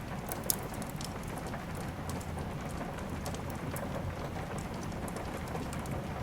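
Steady rain with the sharp crackles and pops of a wood fire scattered through it, one louder pop about half a second in.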